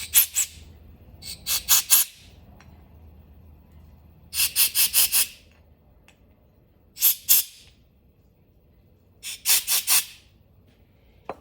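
Compressed-air blow gun blowing short blasts into the ports of a snowmobile fuel pump to clear them, in quick groups of two to five sharp hissing puffs a couple of seconds apart.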